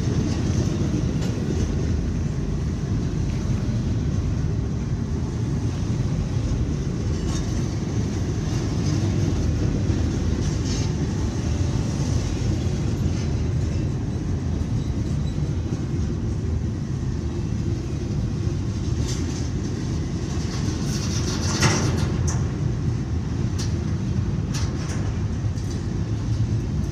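Freight train cars rolling past: a steady rumble of steel wheels on rail, with occasional sharper clicks and clanks.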